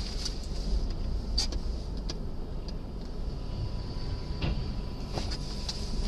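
A vehicle's steady low road and engine rumble as picked up by a dashcam, with a few faint clicks.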